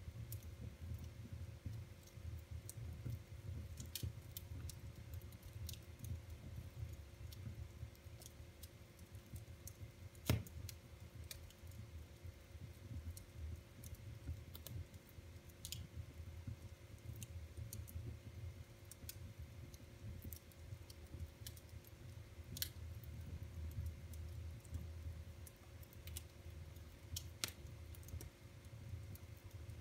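Wood fire crackling in a fireplace: irregular sharp pops and snaps, the loudest about a third of the way in, over a steady low rumble of the flames.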